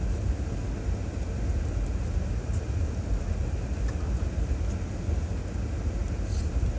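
Steady low rumble of a 2006 Chevrolet Trailblazer driving along a trail, heard from inside the cabin, with a few faint ticks and rattles.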